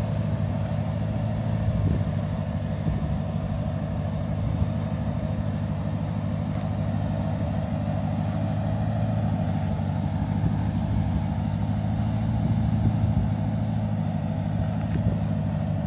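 Pickup truck engine running steadily at low, even revs: a constant low-pitched hum.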